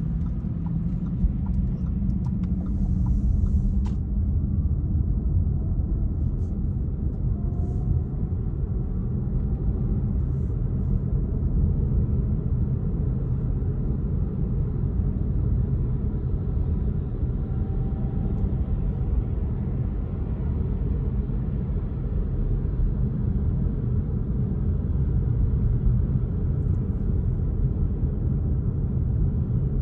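Car driving along at a steady pace: a low, even rumble of engine and tyre noise.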